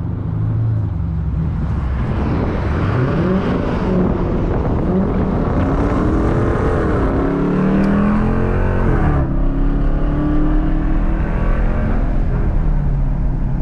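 Dodge Challenger R/T's V8 exhaust with the mid muffler and resonators deleted, growling as the engine pitch rises and falls several times under acceleration, then settling to a steady drone from about nine seconds in.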